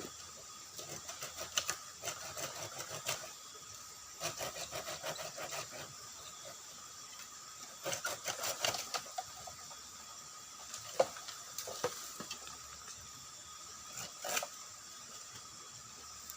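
Dampet bamboo being cut by hand, in several bursts of quick rasping strokes, with a few single sharp knocks in the second half.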